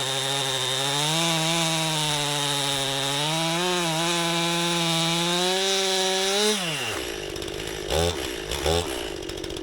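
Two-stroke chainsaw running at high revs under load, its pitch dipping and recovering slightly; about two-thirds of the way through the revs fall off, and two short louder blips follow near the end.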